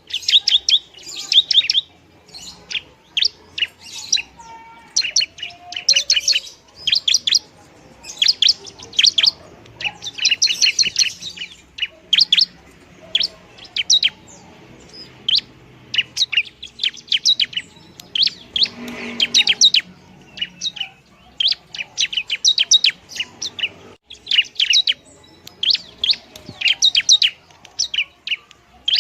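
Long-tailed shrike singing: bouts of rapid, high chattering notes, each under a second or so long, repeated over and over with short pauses between.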